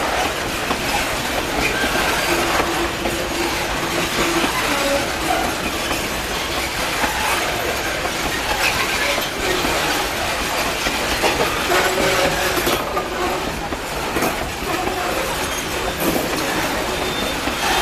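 Loaded GDE iron-ore hopper wagons rolling slowly past: a steady clatter and rumble of steel wheels on the track, with brief wheel squeals now and then.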